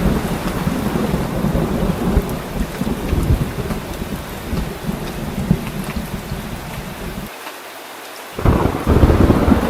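Heavy rain with thunder rumbling throughout. Near the end the low rumble drops away for about a second, then a louder peal of thunder starts suddenly.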